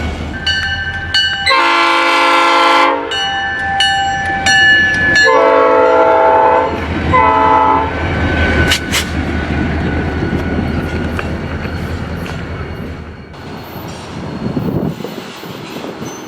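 Freight locomotive horn sounding two long blasts and a short one over the rumble of the engine. It is followed by the rushing, clattering noise of the train passing on the rails, which slowly fades.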